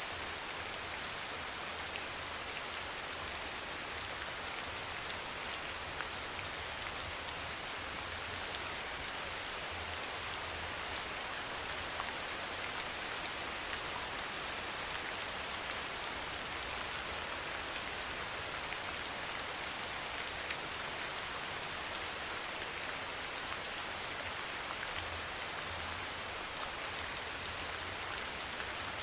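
Steady rain falling, an even hiss of many drops with scattered small ticks of individual drops striking a surface.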